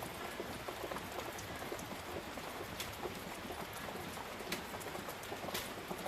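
Rain falling steadily: an even hiss with many small, sharp drop ticks scattered through it.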